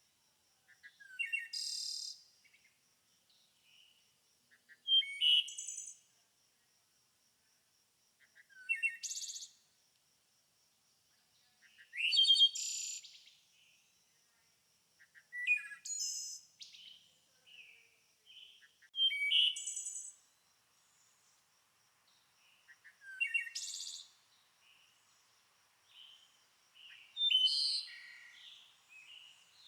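A songbird singing short, high-pitched phrases of about a second each, repeated every three to four seconds, with a faint steady high whine in the gaps.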